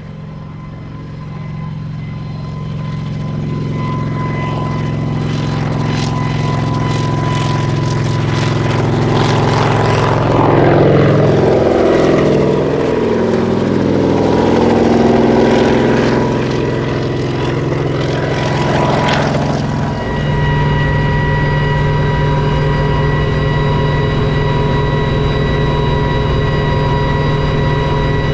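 Kamov Ka-26 helicopter, its twin radial piston engines and coaxial rotors growing louder as it approaches, passing close by in the middle with its pitch falling, then running steadily after a short dip about 20 seconds in.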